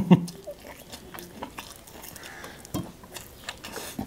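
A person biting into and chewing a bone-in piece of spicy dry chicken, with soft scattered mouth clicks and smacks. A brief voiced sound comes at the very start.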